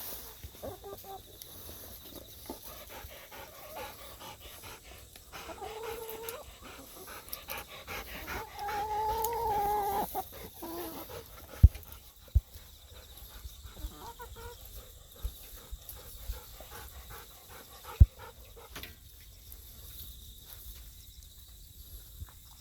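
An animal call, drawn out and pitched, lasting several seconds around the middle and rising and falling in pitch, over light rustling. Three sharp knocks follow later.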